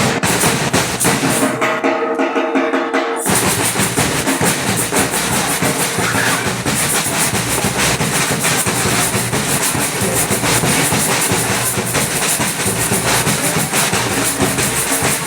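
Batucada samba percussion ensemble playing a fast, dense drum rhythm. About a second and a half in, the low drums drop out for a moment's break, then the full group comes back in.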